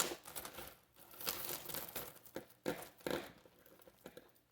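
Hands rummaging through a bag of tangled costume jewelry: irregular rustling and crinkling with small sharp clicks, dying down near the end.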